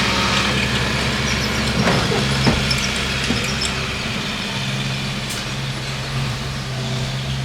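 Bulldozer's diesel engine running steadily, with a few short knocks about two to three seconds in.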